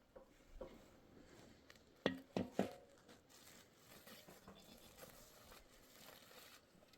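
Three quick, sharp knocks about two seconds in, over a quiet background with faint scattered taps.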